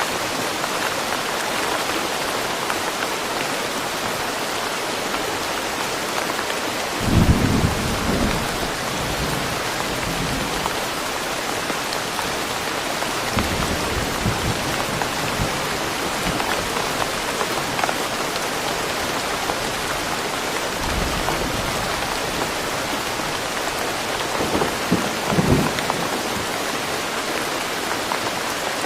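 Steady rain falling in woodland, an even hiss with no let-up. A few short low rumbles come through it, the loudest about seven seconds in and again near the end.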